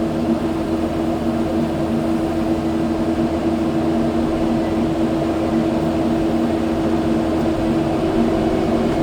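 Kubota skid steer's diesel engine running at a steady speed, an even drone that does not change.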